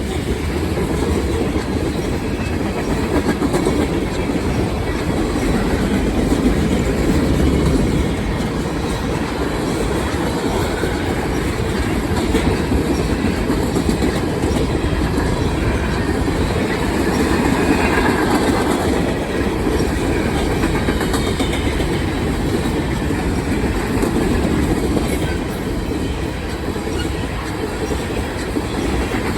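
Norfolk Southern manifest freight train's cars rolling past, a steady rumble and clatter of steel wheels on the rails.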